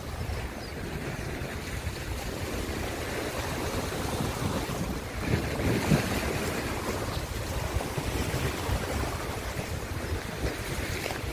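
Ocean waves washing in steadily, with a bigger wave swelling and breaking about five to six seconds in.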